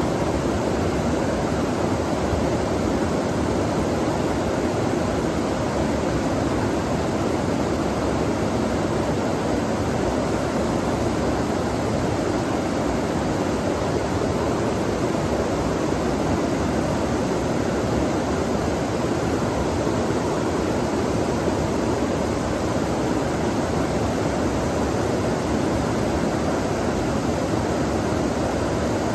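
Flowing stream water, an unbroken steady rush with no change in level.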